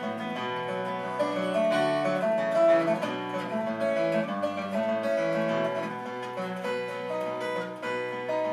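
Acoustic guitar strummed and picked in an instrumental break between the sung verses of a ballad.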